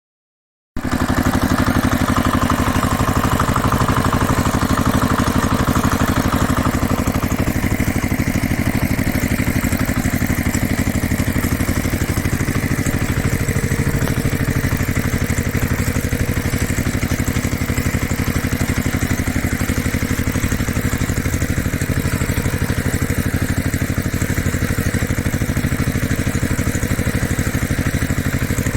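An engine running steadily at an even idle, starting abruptly just under a second in.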